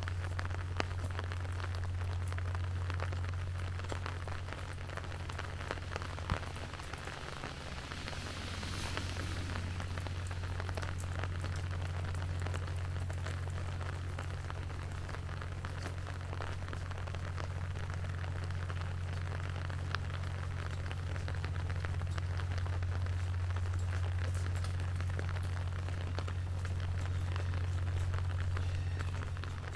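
Rain falling, with many small drop ticks over an even hiss, on top of a steady low hum. A brief brighter hiss swells and fades about nine seconds in.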